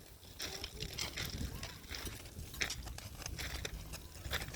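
Footsteps crunching irregularly over rough ground, a series of sharp crunches, with a low rumble on the microphone.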